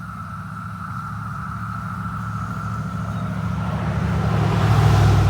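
Chorus of Brood X periodical cicadas, a steady high drone, under a low rumble that grows steadily louder and is loudest near the end.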